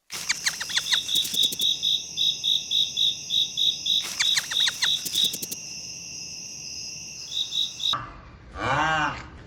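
Insects, crickets, chirping: a steady high whine with a rhythmic trill of about four pulses a second and bursts of rapid chirps. About eight seconds in this gives way abruptly to loud waterfowl calls, a honk rising and falling in pitch.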